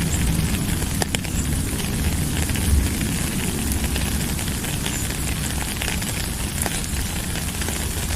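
Steady rain: a dense, even hiss with a deep rumble underneath and scattered sharp ticks of single drops.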